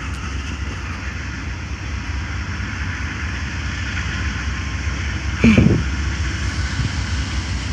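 Low rumble of a train running on the tracks, slowly growing louder, with a short vocal sound about five and a half seconds in.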